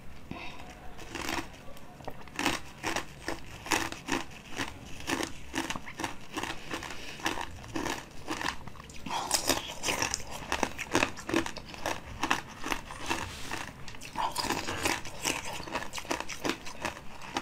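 Close-up crunchy biting and chewing of bead-filled candy domes: an uneven run of crisp crunches, several a second, growing denser and louder about halfway through.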